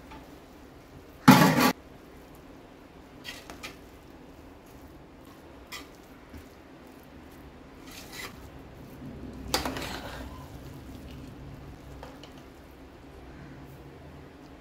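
Metal kitchen utensils clinking and scraping against cookware: a loud clatter about a second in, a few light taps, then another clatter with a brief ring later on.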